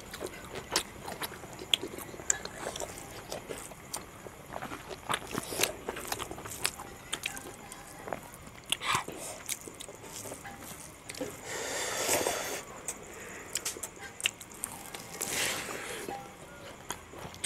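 Close-up eating sounds of two people eating rice and pork curry with their hands: chewing and lip smacking, heard as many small wet clicks. There are two longer noisy stretches, about twelve and fifteen seconds in.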